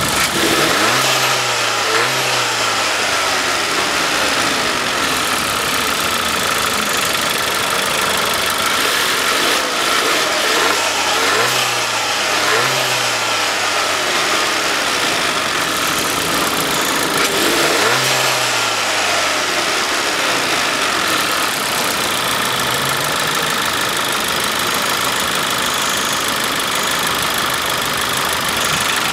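Skoda Octavia 1.4 TSI turbocharged four-cylinder petrol engine being revved while parked. It climbs and falls back in pitch about three times, a second in, around halfway and again a few seconds later, against a loud steady running note. It revs up to a limiter around 4,000 rpm.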